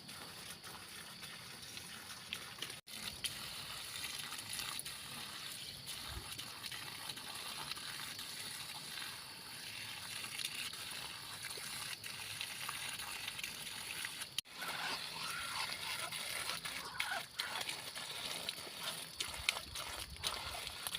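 Water splashing and trickling, with small clicks and knocks, broken twice by sudden brief cuts.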